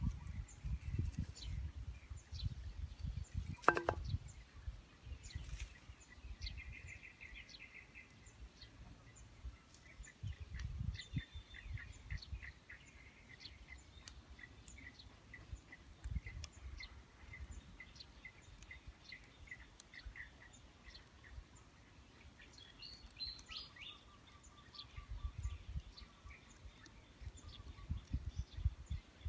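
Small birds chirping in the background: a quick trill, then a run of short repeated chirps at about two a second, then another call near the end. Under them come intermittent low rustling bumps, with one sharp click about four seconds in.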